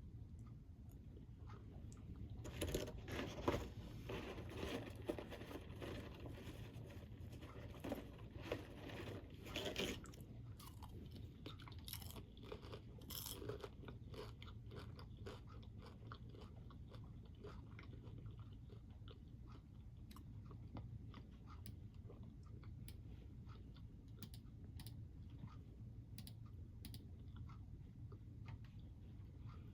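Crunchy snack being chewed, dense crackling bites for the first ten seconds or so, then softer, scattered crackles.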